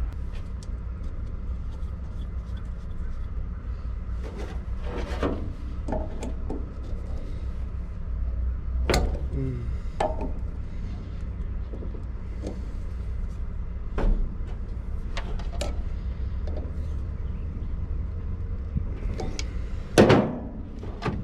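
Scattered clicks and knocks of hands working on a part, over a steady low hum, with one louder knock near the end.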